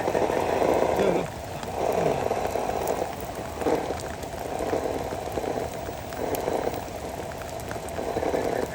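Electric motor and gear drivetrain of a scale RC crawler whirring in irregular bursts as throttle is applied and released, winding down briefly between bursts while it works through mud.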